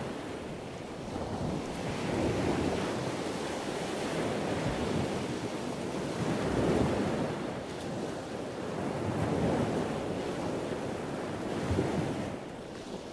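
Wind blowing over the microphone: a rushing noise that swells and eases in gusts every few seconds.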